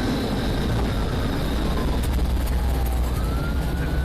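Police cruiser in a high-speed pursuit: a steady low road and engine rumble with wind noise, and a siren wailing, its pitch falling and then rising again about three seconds in.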